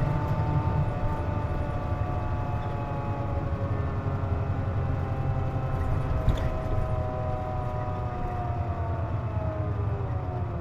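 Inside a KC-JP250NTN diesel city bus under way: low engine and road rumble with a whine of several tones that drifts slowly and sinks in pitch over the last few seconds. This is the odd noise the bus makes with the air conditioning on.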